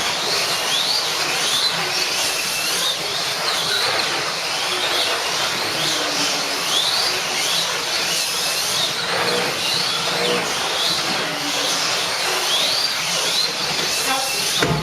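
Several electric slot cars racing together: a dense, steady whir of small motors and tyres on the track. Over it, the motors' high whine rises and falls again and again as the cars speed up and slow down.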